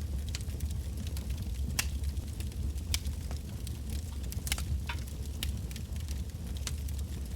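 Wood fire burning, with irregular sharp crackles and pops of the firewood over a steady low rumble of the flames.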